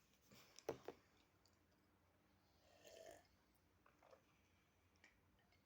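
Near silence, with a faint short tap about a second in and a brief soft rustle or breath near the middle.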